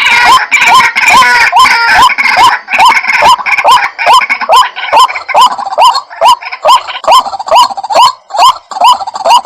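White-breasted waterhen calls: a rapid, repeated series of short rising notes, about two a second, denser and overlapping in the first couple of seconds.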